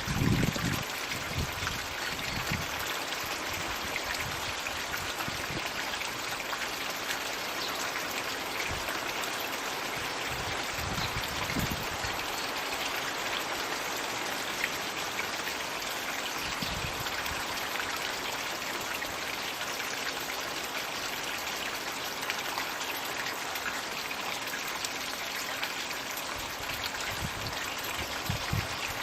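Floating magic-bucket pond fountain running: a steady splashing trickle of water pouring back into the pond. A few brief low rumbles come at the start and again about 11 and 17 seconds in.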